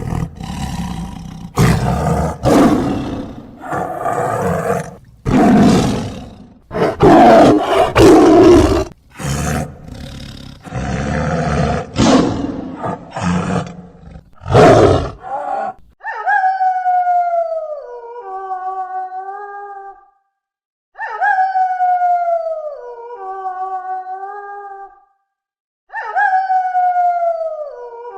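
Big cat roaring, a series of loud rough roars and growls. After that a different pitched call, sliding down and then holding steady, repeats three times in identical copies.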